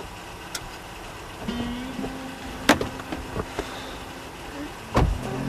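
Car interior sounds: a few clicks, the sharpest about halfway, then a heavy thump near the end like a car door being shut.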